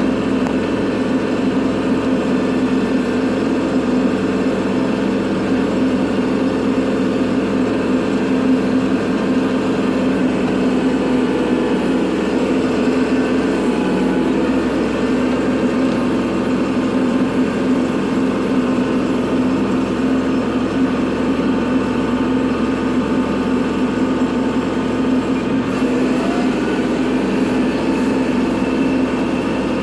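Kubota tractor's diesel engine running steadily at a constant speed while plowing snow.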